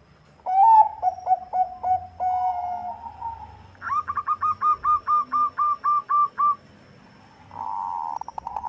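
Zebra dove (Bangkok-bred perkutut) singing its cooing song. It opens with a stuttering phrase of coos, then a fast, even run of about a dozen clipped notes, roughly four a second. Another phrase starts near the end.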